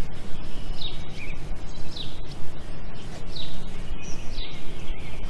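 A bird calling over and over, a short falling chirp about once a second, over a steady low rumble.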